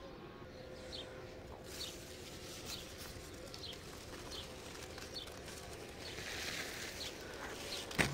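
A small bird chirping repeatedly, short high notes about once a second, over a faint steady hum. Near the end there is a rustle of leaves.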